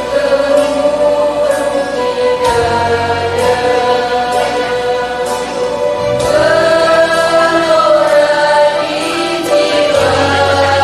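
Choir singing a march anthem in long held notes, over instrumental accompaniment with a steady bass line.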